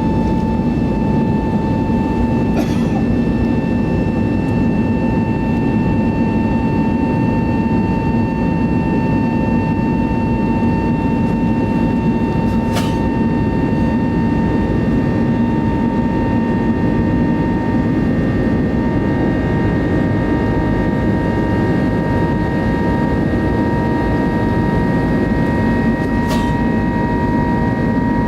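Airbus A320neo jet engines running steadily, heard from inside the cabin: a loud rumble under a steady whine whose pitch creeps up slightly. A few faint clicks sound now and then.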